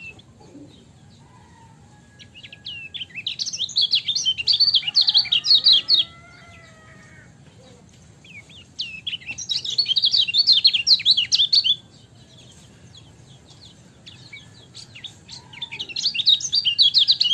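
Kecial kuning white-eye singing in three fast bursts of high, jumbled chirps, each lasting about three seconds, with quieter gaps between them; the last burst is still going at the end.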